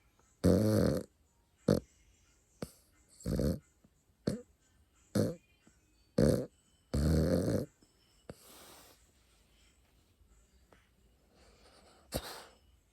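Pet dog snoring in its sleep: irregular buzzing snores and short snorts a second or two apart, the longest lasting about a second. It goes quieter for the last few seconds, with one short snort near the end.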